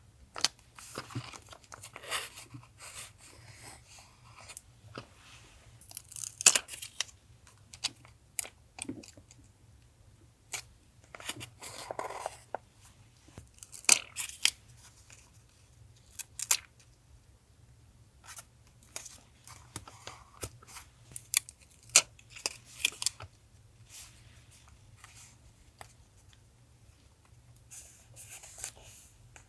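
Paper being handled for collage journaling: tearing, cutting and crinkling in short, irregular bursts, with sharp clicks between them.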